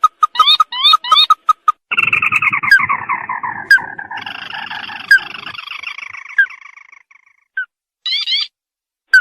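Recorded lure call of the sintar crake (tikusan mata merah). It starts with a quick series of short piping notes and rising chirps. About two seconds in comes a long chattering trill that falls in pitch and fades out over some five seconds, and a few rising chirps follow near the end.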